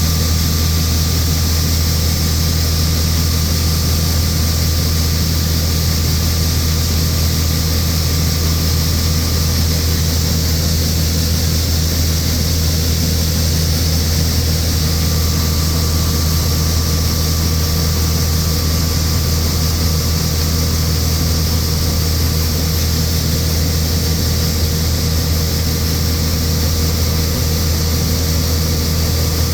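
John Deere 6620 Turbo combine's turbo diesel engine running steadily below full throttle while unloading grain. A faint high whine cuts out for a few seconds just past the middle, then comes back.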